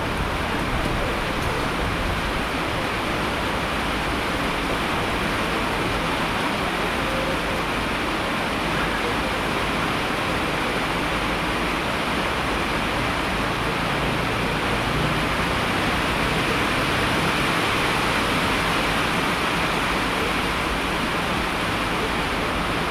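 Steady heavy rain: a dense, even hiss with no individual drops or breaks standing out.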